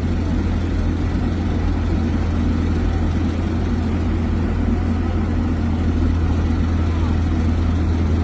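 Heavy diesel vehicle engine running steadily with a deep, even rumble, with faint voices in the background.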